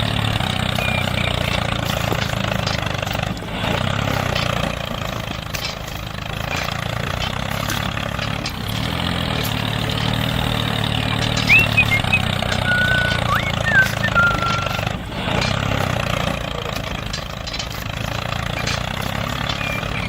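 Mini diesel engine running steadily, with a few short high chirps about two-thirds of the way through.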